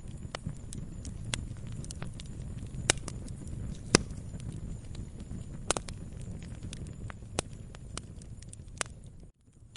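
Campfire crackling: a steady low rumble of burning wood with irregular sharp pops, the loudest about four seconds in. The sound cuts out for a moment near the end.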